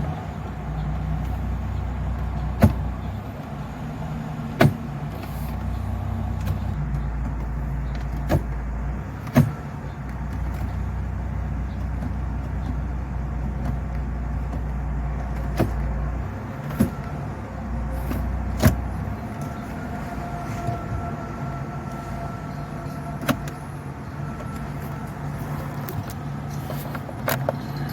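Low rumble from a car, coming and going in stretches, with about nine sharp clicks a few seconds apart.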